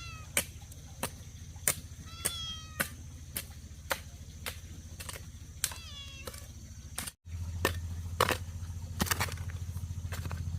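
An animal calling three times in short, slightly falling cries, over a row of sharp knocks about one and a half a second and a steady low hum that breaks off briefly past the middle and returns louder.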